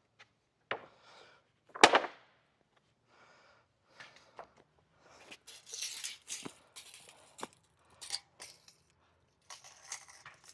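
Irregular sharp knocks and clicks, the loudest about two seconds in, followed by bursts of scraping and rustling.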